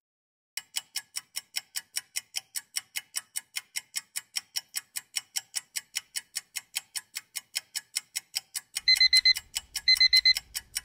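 Countdown-timer sound effect: a clock ticking rapidly and evenly, then, with under two seconds left, an alarm clock beeping in short bursts about once a second to signal that time is up.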